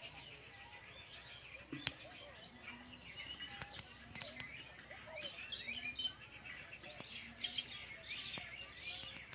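Several birds chirping and singing together, many short overlapping calls, with a single sharp click about two seconds in.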